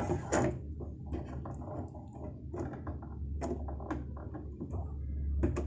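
Small, scattered clicks and knocks of a portable sewing machine's presser foot being taken off and the buttonhole foot being fitted, over a low steady hum.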